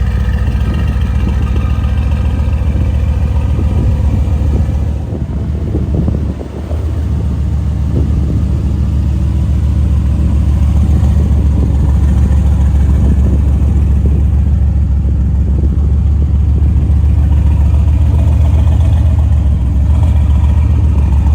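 A car engine running steadily and loudly, with a brief dip in level about five to six seconds in before it settles back.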